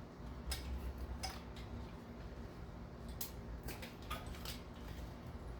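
Scattered sharp clicks and snips of a hand tool cutting rubber hoses off a Nissan VG33E V6 engine's intake, about seven of them spread unevenly through the stretch.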